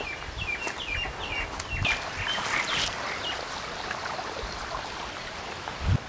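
A bird calling a quick run of short falling chirps, about three a second, over the steady rush of pumped irrigation water flowing along a dug earth channel. The chirps stop about halfway through, and a dull thump comes near the end.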